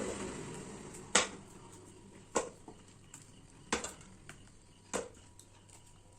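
A run of sharp, short clicks or knocks, about one every 1.2 seconds, over faint room noise.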